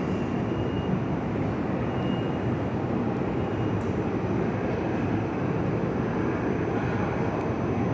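PATH rapid-transit train running, a steady, even rail noise without distinct clanks or horn.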